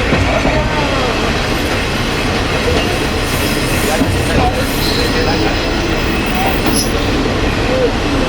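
Kiha 20 diesel railcar running along the line, its engine and the wheels on the rails giving a steady loud rumble, with several brief wheel squeals.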